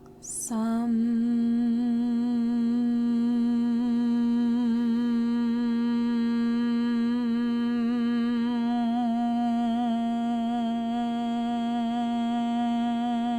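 A voice chanting the bija syllable "sum" for the crown chakra: a short "s" hiss about half a second in, then one long hummed "mmm" held steady on a single pitch with the mouth closed.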